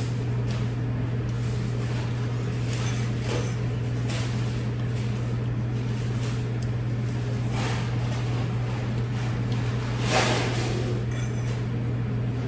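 A steady low hum throughout, with a few brief soft noises of eating and handling food and containers; the loudest comes about ten seconds in.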